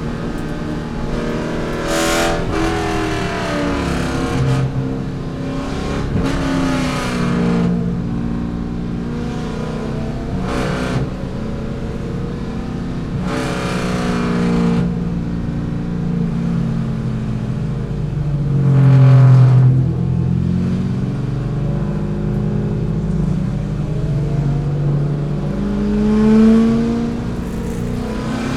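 C5 Corvette's V8 engine at race pace, its pitch climbing and falling again and again as it revs up through the gears and drops at the shifts and braking.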